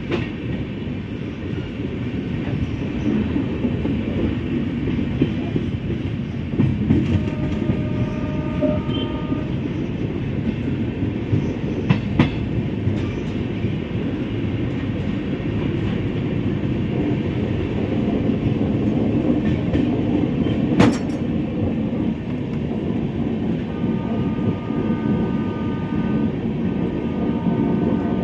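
An Indian Railways express train running, heard from inside a passenger coach: a steady rumble of wheels on rails with occasional sharp clicks over rail joints. A steady high tone comes in twice, briefly a few seconds in and again near the end.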